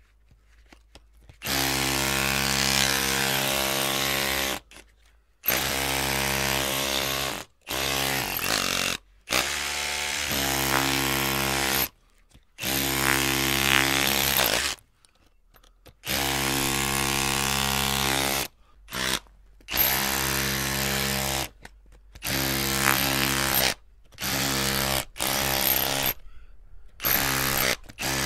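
Electric drill motor whining in about a dozen separate bursts, each from under a second to about three seconds long. The trigger is released between bursts, so the motor starts and stops abruptly. The pitch holds steady within each burst.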